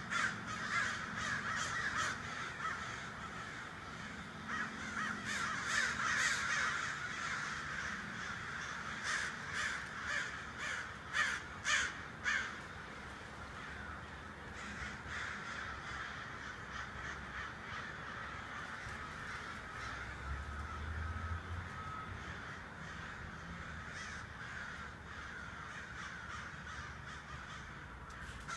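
A large flock of birds calling all at once: a dense, unbroken chorus of many overlapping calls, with louder individual calls standing out in the first half.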